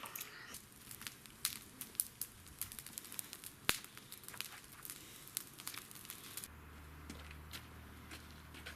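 Packaging being handled: scattered light clicks, taps and crinkling, like a plastic-wrapped cardboard fireworks box being turned over and sorted. About six and a half seconds in, a steady low hum starts underneath.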